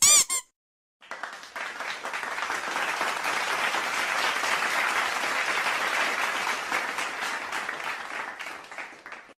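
A brief pitched sound effect, then applause: many hands clapping, starting about a second in and fading out near the end.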